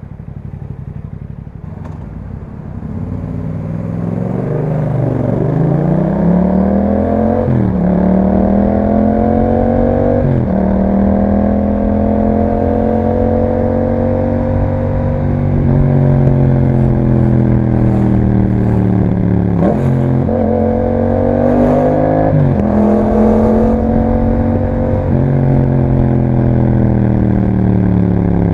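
Yamaha MT-07's parallel-twin engine through an Akrapovic exhaust, pulling away from low revs and accelerating through several gears. The pitch climbs and drops suddenly at each gear change, with a steadier cruising stretch in between.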